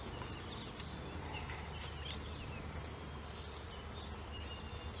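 A small bird chirping: a quick run of short rising chirps in the first two seconds, then fainter calls. Underneath is a faint steady hum that fits bees working the flowering ceanothus.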